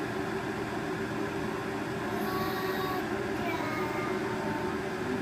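Aicok electric kettle heating water, a steady rushing noise at an even level as the water works toward the boil.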